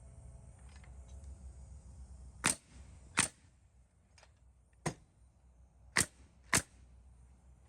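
A nail gun firing nails to fasten trim boards over the siding, in five sharp shots at uneven intervals.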